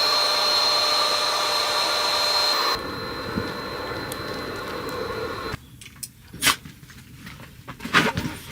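A small electric motor running with a steady whine, dropping in level about three seconds in and stopping about two and a half seconds later, followed by a few sharp knocks and clicks.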